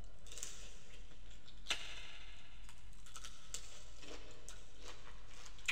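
Close-miked chewing of boiled prawns in sauce: a run of wet, crackling clicks from the mouth, with a sharper crunch about a second and a half in and another near the end.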